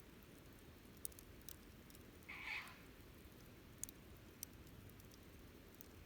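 Wood campfire crackling faintly: a handful of sharp, separate pops over a low steady rumble, with a brief hiss about two and a half seconds in.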